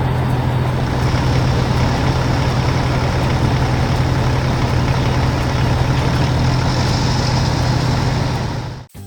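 Heavy vehicle engine running steadily at a constant pitch, cut off abruptly near the end.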